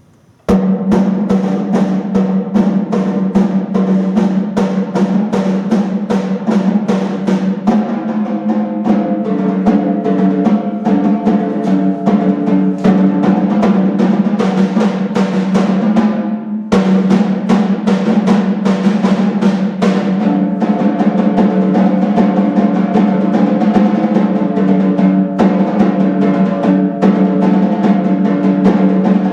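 Percussion duet on drums: fast, dense strokes and rolls starting about half a second in, with a short break a little past halfway before the playing resumes.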